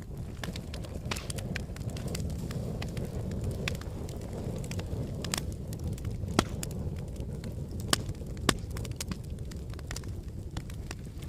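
Wood fire burning in a fireplace: a steady low rumble of flames with scattered crackles and sharp pops of burning wood, a few louder pops past the middle.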